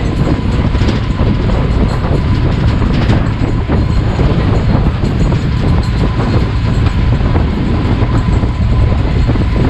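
A vehicle running with a steady low rumble and a constant light rattling clatter, with a faint steady whine riding over it.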